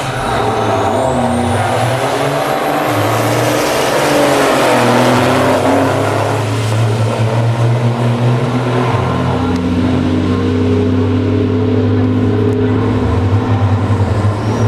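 Race truck's diesel engine running hard under heavy throttle, its note dropping and then climbing again about four or five seconds in.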